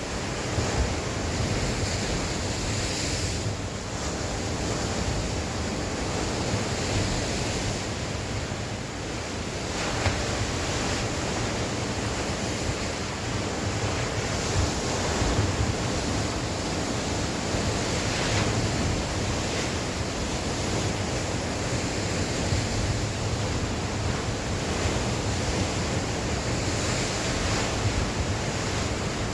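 Sea waves breaking and washing on the shore in a steady wash that swells gently every few seconds, with wind rumbling on the microphone.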